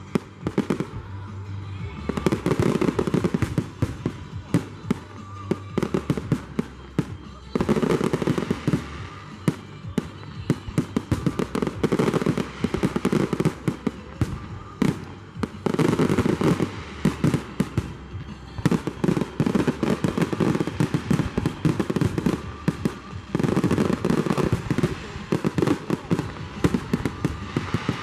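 Fireworks display: many sharp bangs and crackles from bursting shells, coming in dense volleys every few seconds.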